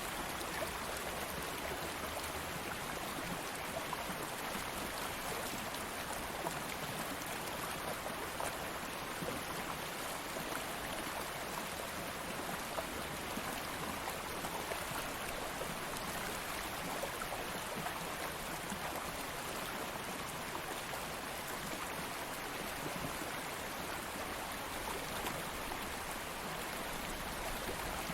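Stream water flowing steadily over stones, an even rushing babble with small splashes throughout.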